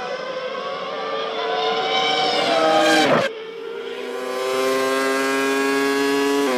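A 1998 Formula One car's V10 engine at high revs, rising in pitch as it approaches and then dropping sharply as it sweeps past about three seconds in. After an abrupt change, a steady high engine note holds at near-constant revs, growing louder a second later.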